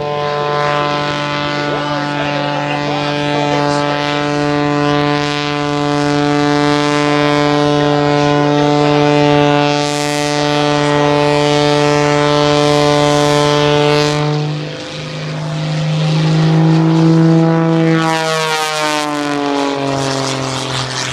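Aerobatic propeller airplane's engine and propeller at high power, a steady droning tone held while the plane hangs nose-up in a prop-hang hover. About 15 seconds in, the pitch dips, then rises, then slides down as the plane flies off.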